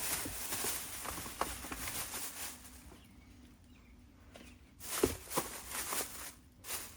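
Scattered clicks and knocks of tools and metal parts being handled during brake work, with a cluster of sharper knocks about five seconds in, over a steady hiss that fades out about three seconds in.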